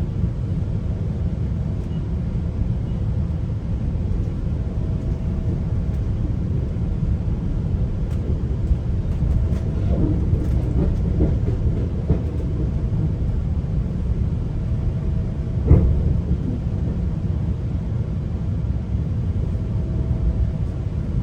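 GO train rolling along the track, heard from inside the coach: a steady low rumble of wheels on rail, with faint ticks and rattles and a single sharp knock about three-quarters of the way through.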